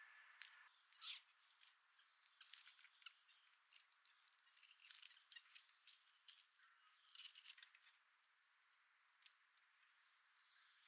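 Small birds at a seed feeder: faint, scattered light ticks and taps, in loose clusters, with a few short high chirps.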